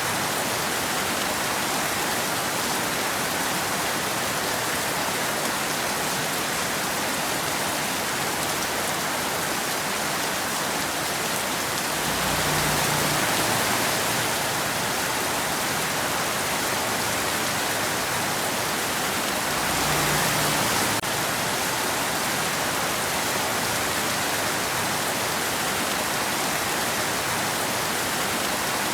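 Steady rain falling on a road as a dense, even hiss. It swells briefly louder and deeper twice, about twelve and twenty seconds in.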